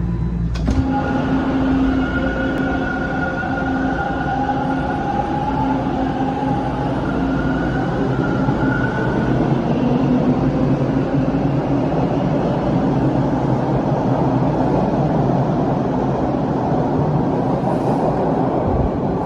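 TTC Line 2 subway train running at the platform: a steady rumble of wheels on rail with several whining tones that drift slightly in pitch over the first half, then fade into the rumble.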